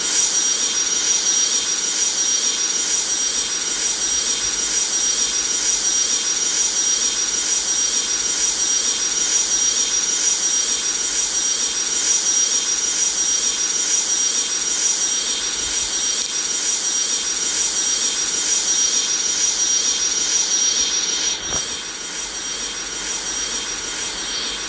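Boeing 737 jet engines running at high power, heard as a steady rush of noise with a high, steady whine. A click comes about twenty-one seconds in, after which the noise is a little quieter.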